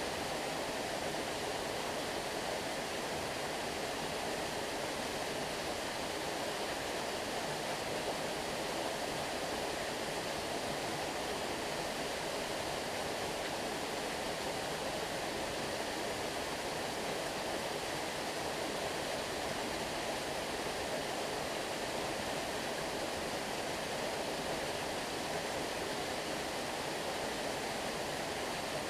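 Stream water flowing and rushing steadily, an even wash of sound with no breaks or changes.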